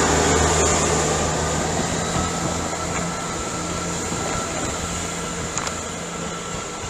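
A diesel passenger train's engines running as it pulls away, the sound dying down steadily.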